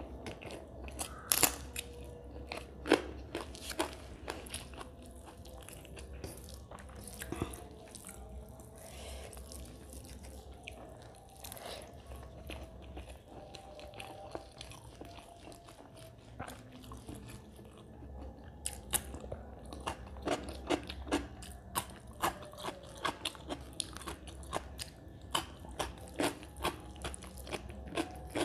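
A person chewing a mouthful of rice and mutton curry with open-mouthed smacks and wet clicks, the clicks coming thickest about a second in and again through the last third. Fingers mix rice and gravy on a steel plate.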